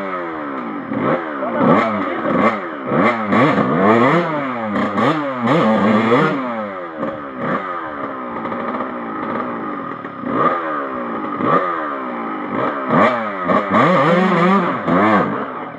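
Off-road trail motorcycles revving hard, engine pitch rising and falling again and again, with more than one bike heard at once, as they are pushed through a tough trail section.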